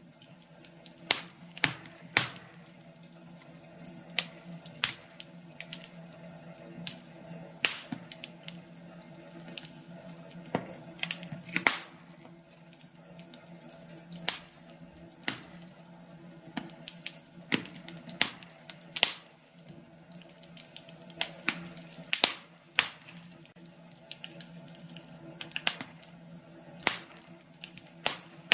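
Wood fire crackling in a fireplace, with irregular sharp pops and snaps, a few of them loud, over a faint steady hum.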